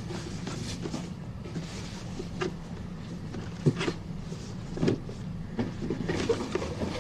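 A gift being unwrapped and handled: soft rustling with a few brief clicks and knocks over a low steady hum.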